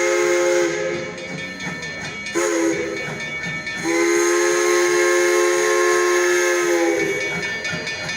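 Durango and Silverton steam locomotive's whistle sounding several notes together in three blasts: one that stops under a second in, a shorter one around the third second, and a long one of about three seconds. Steam hisses between the blasts.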